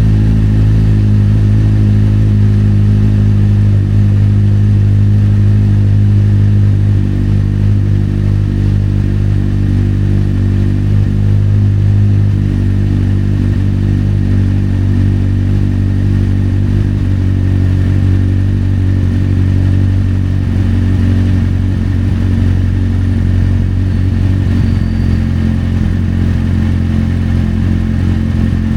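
Kawasaki Z800's inline-four engine idling steadily just after a cold start, through an Akrapovic exhaust; it eases slightly in level about seven seconds in.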